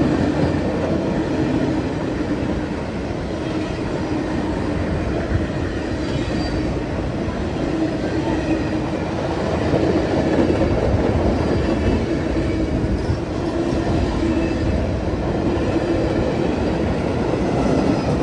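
A train rolling past at speed, with a steady, continuous rumble of wheels on rail.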